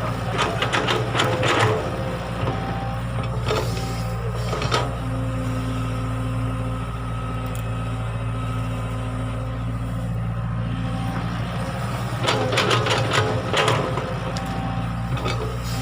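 Excavator's diesel engine running steadily, with clusters of metallic clanking and rattling near the start and again near the end, and a couple of single knocks in between.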